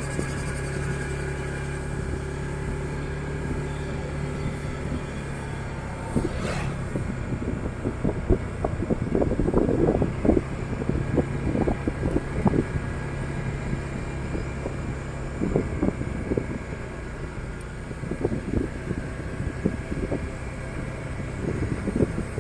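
Motorcycle engine running steadily while riding, with irregular low thumps from about eight seconds in.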